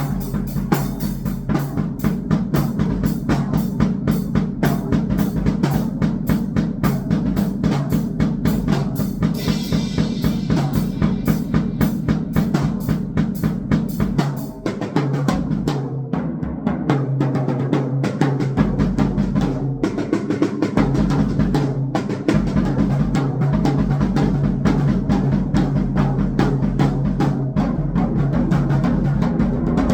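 Drum kit played fast and dense, with bass drum, snare and rolls, over a steady low electronic drone. The playing thins briefly about halfway through, then picks back up.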